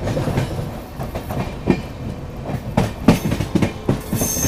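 Passenger train running, its wheels clattering over rail joints and points in a run of irregular sharp knocks over a steady rumble. A high wheel squeal starts near the end.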